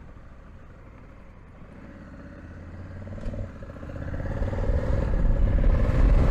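Honda Africa Twin's parallel-twin engine running under way, then accelerating hard from about four seconds in. Low wind rush builds on the action-camera microphone as speed rises, and the sound grows very loud towards the end.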